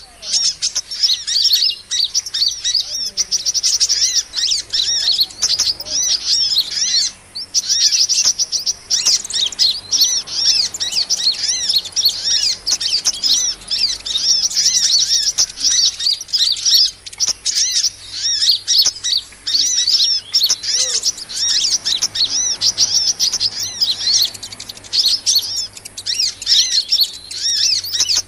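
Dense, rapid high-pitched chirping and twittering of many small birds: a bird-lure recording of sunbird (kolibri) calls, with short breaks about 7 and 17 seconds in.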